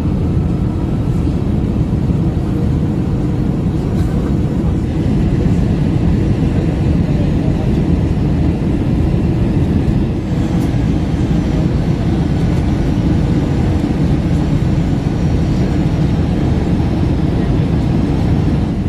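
Airbus A321 cabin noise on final approach: a steady, loud rumble of airflow and engines with a faint hum of tones over it.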